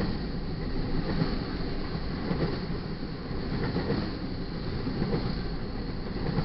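Double-stack intermodal freight cars rolling past at speed: a steady rumble of steel wheels on the rails, swelling and easing every second or so as trucks go by.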